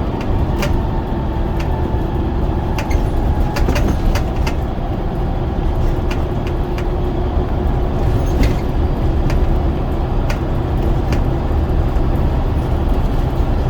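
Scania DC9 9.0-litre diesel engine of a double-decker bus running steadily under way, heard from on board, with irregular clicks and rattles from the bodywork.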